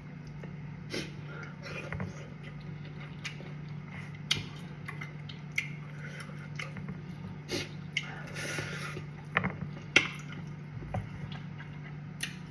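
Close-miked eating sounds: chewing and wet squishing of cassava fufu with soup, with scattered sharp clicks. A steady low hum runs underneath.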